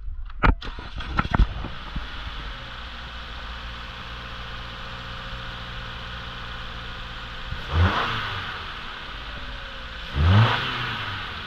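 2019 Subaru Legacy's 2.5-litre flat-four engine starting, settling into a steady idle, then revved briefly twice: once about two-thirds in and again near the end.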